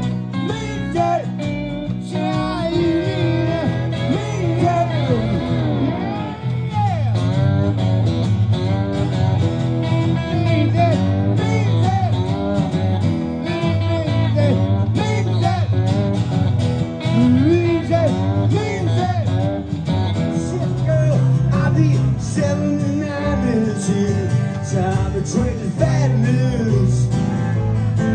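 Live guitar music in an instrumental passage: guitars playing steady chords under a lead line that bends notes up and down.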